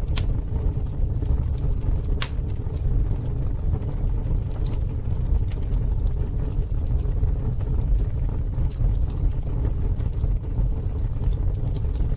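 Campfire burning with a steady low rumble and scattered crackles and pops, sharpest right at the start and about two seconds in.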